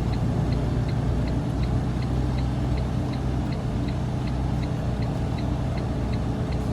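Semi-truck diesel engine running low, heard from inside the cab, with the turn signal ticking steadily at about three clicks a second.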